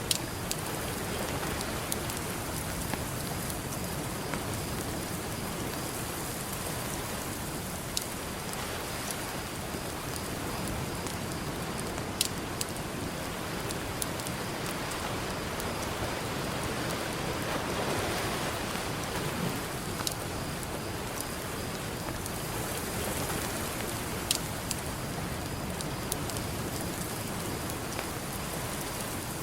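Campfire crackling, with a few sharp pops from the burning wood, over the steady wash of ocean surf that swells once about two-thirds of the way through.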